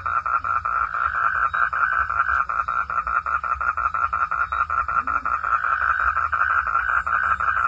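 A night chorus of frogs: a dense, steady train of rapid pulsed calls that never lets up.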